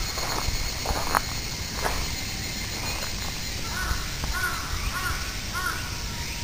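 A bird calling in a quick run of about five short, evenly spaced calls, starting about four seconds in, over a steady outdoor background.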